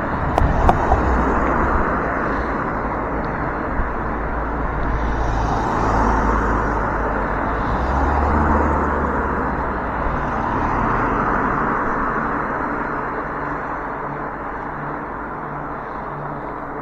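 Road noise while riding an e-bike in traffic: wind rumble on the microphone and the hiss of tyres and passing vehicles, swelling and fading a few times.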